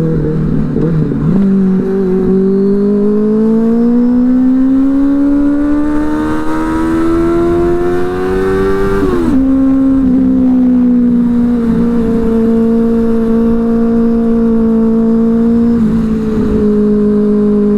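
Benelli 600i inline-four motorcycle engine with an aftermarket IXIL exhaust, heard while riding: the engine note dips at a gear change about a second in, climbs steadily for about seven seconds as the bike accelerates, drops sharply at an upshift about nine seconds in, then holds steady at cruising speed.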